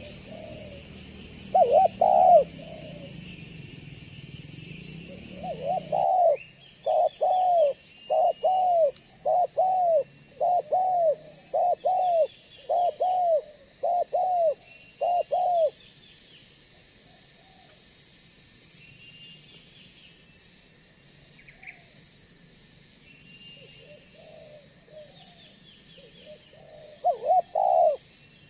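Spotted dove cooing: a couple of coos, then a run of about ten evenly spaced coos, falling quiet and coming back with a short burst near the end. A steady high buzz and the faint chirps of small birds run behind it, and the background changes abruptly about six seconds in.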